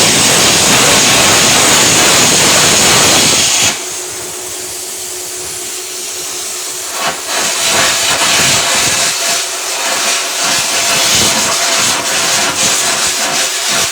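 Arc welding: the arc hisses steadily, stops a little under four seconds in, leaving a faint steady hum, then strikes again about three seconds later and runs with an uneven crackle.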